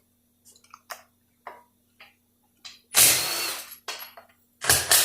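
Impact wrench run in two short bursts, about three seconds in and again near the end, while taking bolts out of an automatic transmission. Small clicks and knocks of tools and parts being handled come before the bursts.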